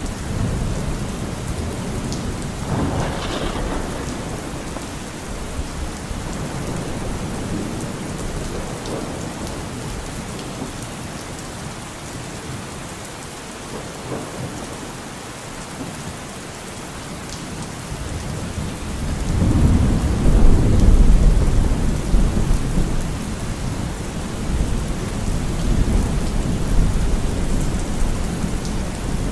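Steady heavy rain with rolling thunder. A sharper peal comes about three seconds in, and a long, loud, deep rumble follows about twenty seconds in.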